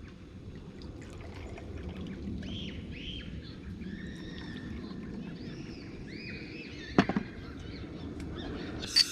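Birds chirping in short repeated calls over a steady low background rush, with a sharp knock about seven seconds in and a brief bright click near the end.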